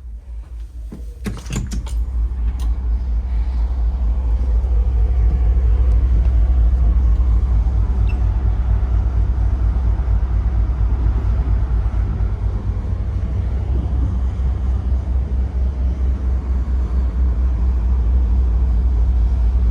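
Wind buffeting the microphone on an open ship's deck: a loud, low, fluttering rumble that builds over the first two seconds after a few sharp clicks, then keeps on.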